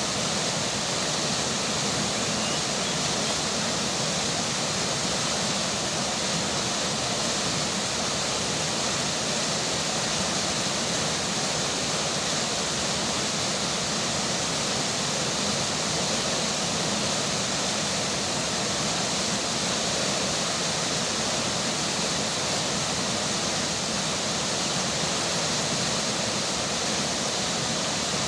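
River water rushing steadily with rainfall mixed in: an even, unchanging hiss with no breaks or separate splashes.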